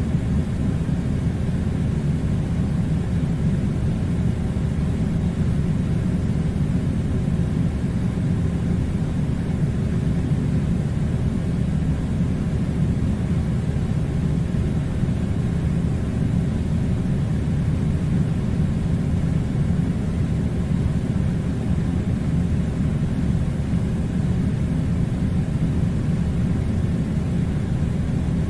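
A steady low rumbling noise, even throughout, with no separate sounds standing out of it.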